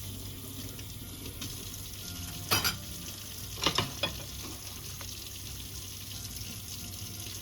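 Running water hissing steadily, broken by a few sharp clunks: one about two and a half seconds in, then three in quick succession near four seconds.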